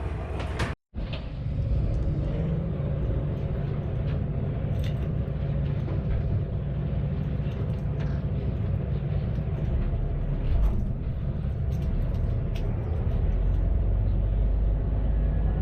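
A KiHa 532 diesel railcar's engine running under way, a steady low rumble with scattered light clicks of running gear. The sound breaks off completely for an instant about a second in.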